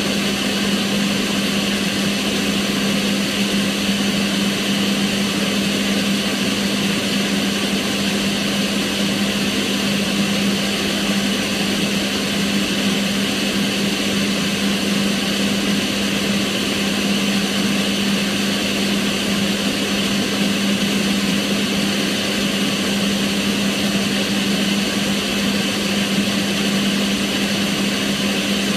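Kitchen range hood extractor fan running steadily: an even rush of moving air over a constant low motor hum.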